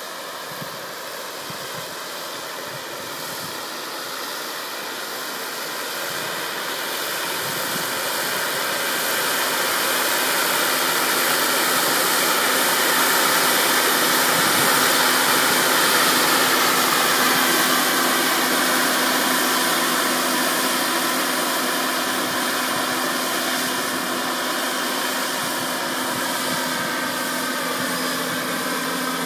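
Radio-controlled model helicopter in flight: a steady motor and rotor whine whose pitch slowly drifts. It grows louder toward the middle, then eases off somewhat.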